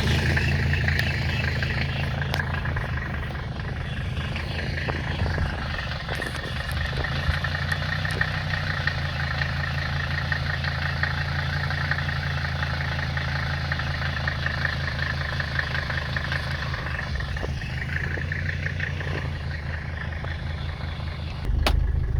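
Car engine idling steadily at low revs, shortly after being started. About a second before the end the sound grows louder and deeper.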